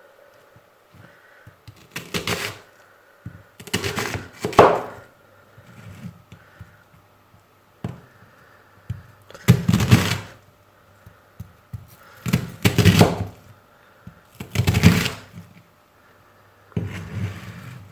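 A series of irregular knocks and clatters, about seven separate thuds spaced a few seconds apart, like objects being handled and set down.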